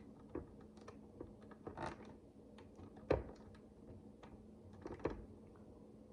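Plastic micro building bricks being handled and pressed together: scattered small clicks and taps, with a sharper click about three seconds in and another about five seconds in, and a brief scrape near two seconds. A faint steady hum runs underneath.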